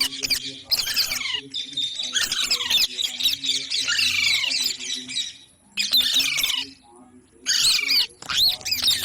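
Parrots squawking: many short, shrill calls that fall in pitch, several overlapping at once, with two brief pauses around six and seven seconds in.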